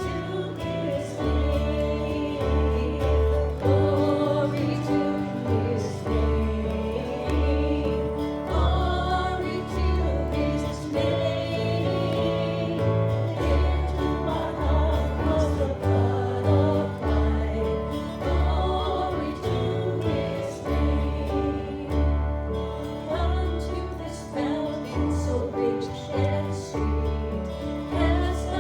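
Worship song sung with instrumental accompaniment, the voices carried over a steady, evenly repeated bass line.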